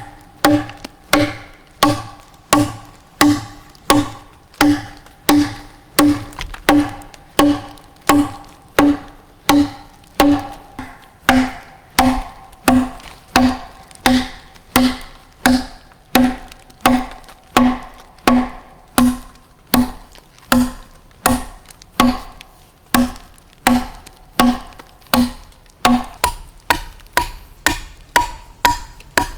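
Steady rhythmic strikes, about three every two seconds, each with a short ringing tone. Near the end they come a little faster and ring higher.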